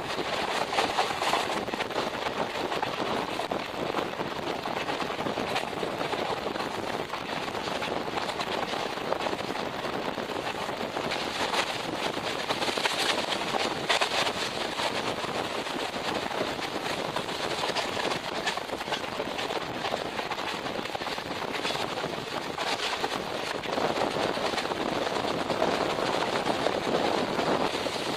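Passenger train running at speed, heard from an open coach doorway: a steady rushing rumble of wheels on the rails with fast, continuous clatter.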